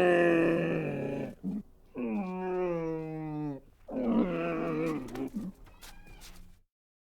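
An animal calling in three long, pitched cries of one to two seconds each. The middle cry slides slowly down in pitch.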